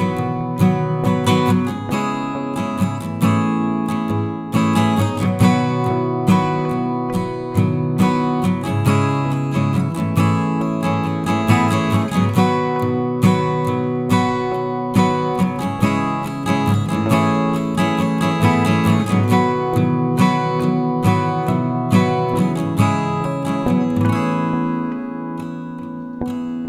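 Background music: acoustic guitar playing a steady run of plucked and strummed notes, a little softer near the end.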